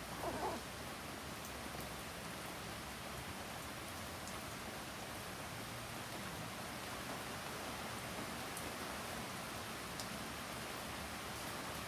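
Heavy typhoon rain falling steadily, an even hiss with a few faint ticks of drops. A brief louder sound comes just at the start.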